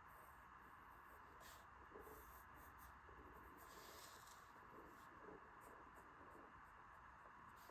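Faint pencil strokes scratching on paper as a drawing is sketched, in short irregular strokes over a steady low hiss.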